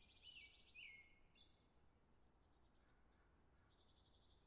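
Faint birdsong: several quick chirps and trills in the first second and a half, then a short trill near the end, over a quiet background.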